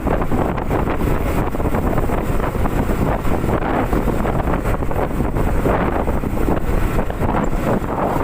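Heavy wind buffeting the microphone of a moving Honda CB150R motorcycle, with the bike running underneath.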